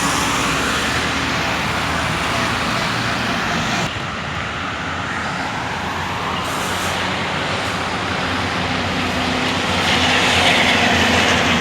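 Diesel engines of heavy Scania 124L 420 prime movers running as a convoy of loaded low-loader trucks passes, over road traffic noise. The sound changes abruptly about four seconds in, and an engine grows louder near the end.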